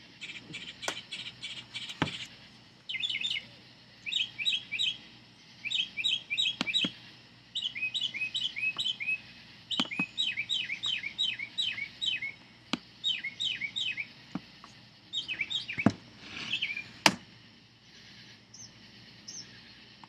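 Birds singing at night: quick bursts of several repeated chirping notes, one burst after another with short gaps, thinning out near the end. A few sharp clicks come through, the loudest near the end.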